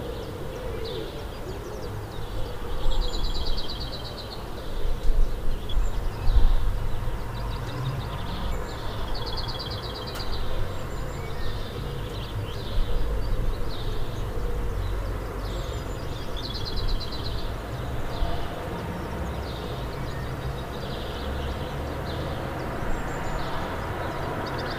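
Birds calling in woodland: many short chirps repeated every second or so, with a few rapid trills, over a steady low rumble that swells for a few seconds near the start.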